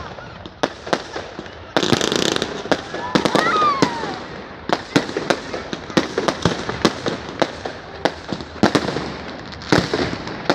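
Fireworks salute: many sharp bangs of shells bursting in the sky at irregular intervals, with a louder, denser burst about two seconds in.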